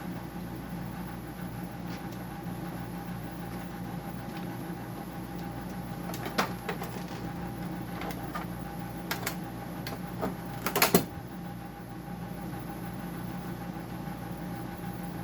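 Steady machine hum under a few sharp clicks and knocks of tools and plastic parts being handled while a dehumidifier is taken apart, with a quick cluster of clacks about eleven seconds in.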